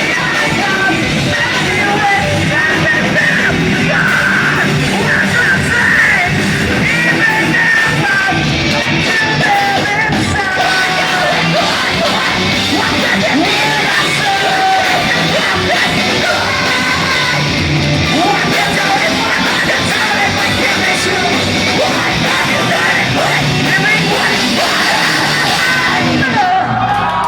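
Post-hardcore band playing live through a loud PA: distorted guitars, bass and drums with a vocal line over them.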